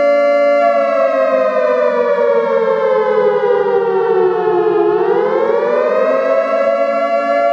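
A sustained siren-like tone with many overtones. It holds steady, then slowly drops in pitch over about four seconds and climbs back up near the end.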